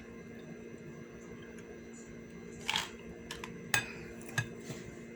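A few light clicks of cutlery against a plate while eating, with a short scraping rustle about halfway through, over a steady low hum.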